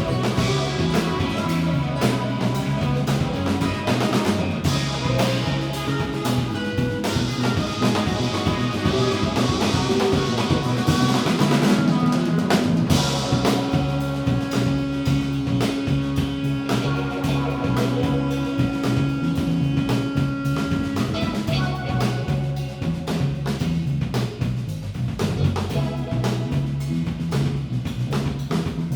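Live band playing an instrumental passage with drum kit, guitar and bass. About halfway through, one note is held for several seconds.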